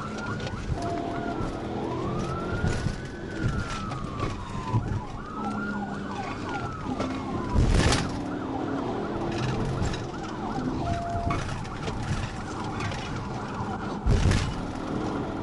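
Police car siren wailing in slow rising and falling sweeps, switching about halfway to a fast yelp, over the patrol car's road noise. Two loud thumps, one near the middle and one near the end.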